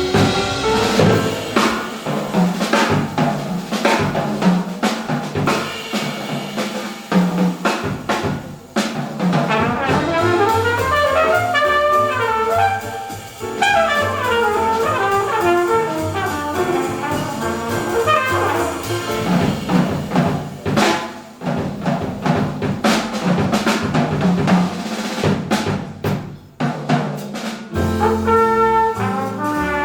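Jazz quintet playing live: flugelhorn with piano, guitar, double bass and drum kit. Quick runs of notes climb and fall through the middle of the passage.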